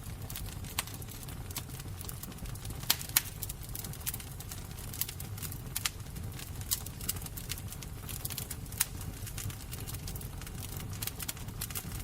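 Fire crackling, with irregular sharp pops over a steady low rumble; a few louder pops stand out about three seconds in and again near nine seconds.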